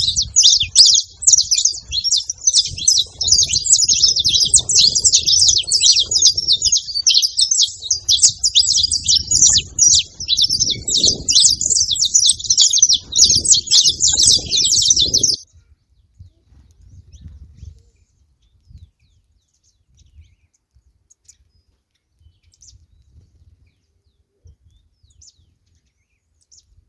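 Several saffron finches chirping and singing together in a dense run of rapid, high chirps that cuts off abruptly a little past halfway. Then only a few faint low knocks.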